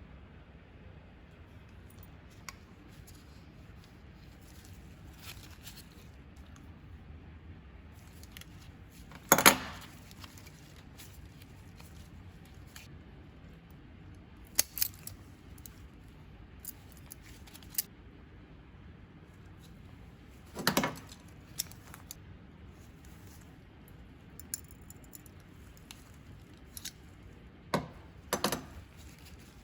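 Small hard parts and hand tools clicking and clacking as they are handled and set down. There are about half a dozen separate sharp clacks with long pauses between them, the loudest a double clack about a third of the way in.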